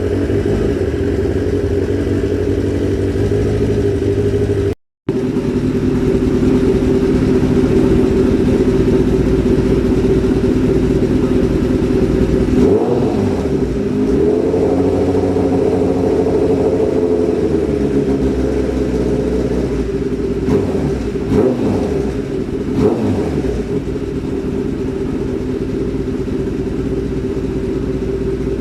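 Fourth-generation Kawasaki ZX-10R's inline-four engine idling after a cold start. The throttle is blipped a few times in the middle, the pitch rising and falling, with three short quick blips near the two-thirds mark. The sound cuts out completely for a moment about five seconds in.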